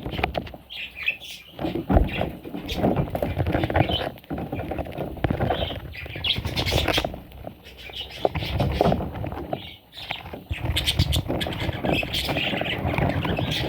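Pet parrots squawking and chirping in short irregular calls, mixed with frequent clicks, knocks and rustling.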